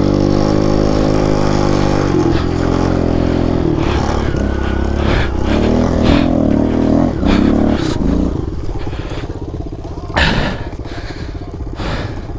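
Kawasaki KLX110 pit bike's small single-cylinder four-stroke engine running at raised revs, the pitch rising and falling between about four and eight seconds in, then dropping to a lower, rougher run. A short clatter about ten seconds in.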